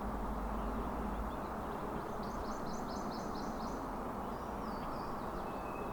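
A small bird singing a quick run of about eight short high notes a couple of seconds in, then another brief call near the end, over a steady low rushing background.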